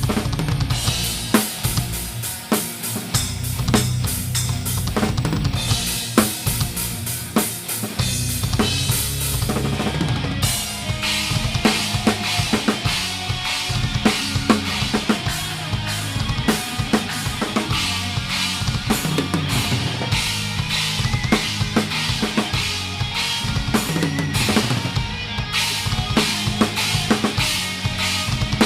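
A rock band playing live, heard from a camera at the drum kit. A Pearl Masters drum kit is loudest, with rapid kick drum and snare hits and cymbals, over the band's steady bass and guitar notes.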